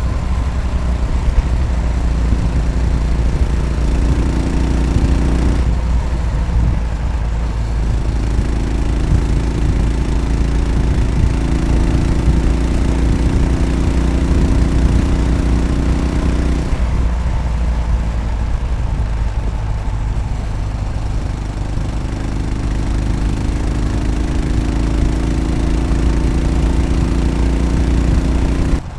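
Yamaha SR500's single-cylinder four-stroke engine running under way, its note slowly rising in pitch and dropping back briefly about six seconds in and again about seventeen seconds in.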